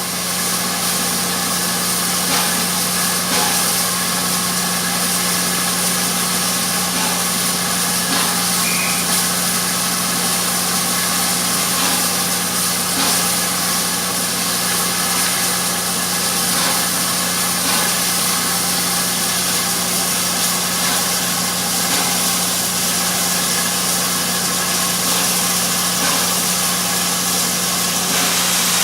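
An engine idling steadily, a constant hum with an even noise over it that does not change.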